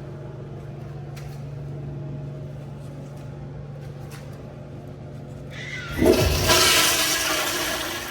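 Commercial wall-hung toilet with a flushometer valve flushing: a sudden loud rush of water about six seconds in that slowly fades, over a steady low hum.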